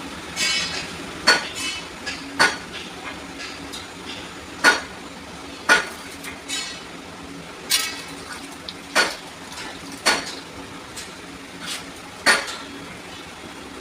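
Metal tools and small metal parts clinking and knocking against each other during hand work on a rotary diesel injection pump: sharp separate clinks, roughly one every second or two, at uneven intervals.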